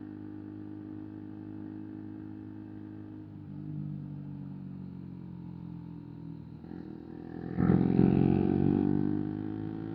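Single-cylinder 125 cc motorcycle engines running at a steady cruise. About seven and a half seconds in, one bike accelerates loudly, rising in pitch, then eases back after a second or two.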